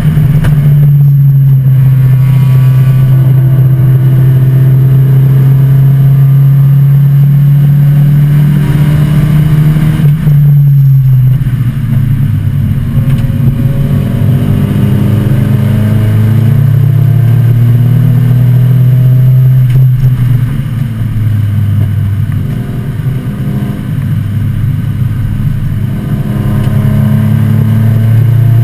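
1986 Volvo 245 race car's engine heard from inside the cabin, holding a steady, loud drone at high revs. It drops in pitch about eleven seconds in, then rises and falls with the throttle, and is quieter for a few seconds past the middle before pulling hard again near the end.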